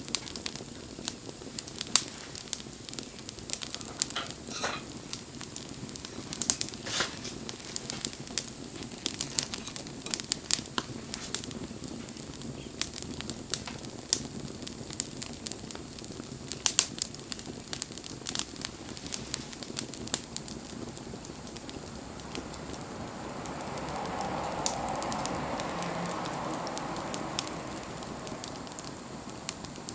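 Wood fire burning, crackling with frequent sharp pops. Near the end a soft rushing hiss swells for a few seconds and fades.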